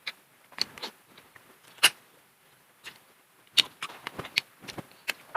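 Close-up eating sounds from a seafood meal: irregular sharp cracks, crunches and wet smacks. The cracks are sparse at first and come thick and fast from about halfway in, as shell-on crab or shrimp is broken open and eaten.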